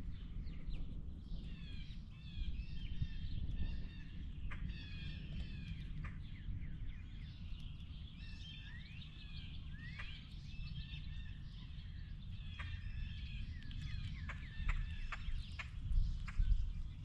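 Small birds chirping and calling, many short chirps and quick falling notes overlapping, over a steady low rumble. A few sharp clicks come near the end.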